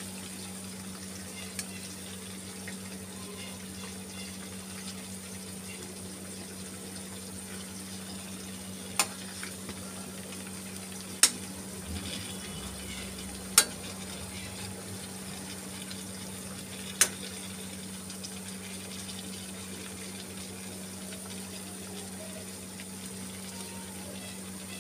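Stuffed capsicums shallow-frying in oil in a kadhai, a steady sizzle with a low hum underneath. A metal spatula clicks sharply against the pan four times, between about 9 and 17 seconds in, as the peppers are turned.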